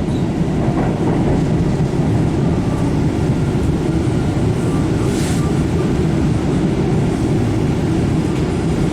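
Steady low rumble of an MBTA Blue Line Siemens 700-series subway car running on the track, heard from inside the car, with a brief hiss about five seconds in.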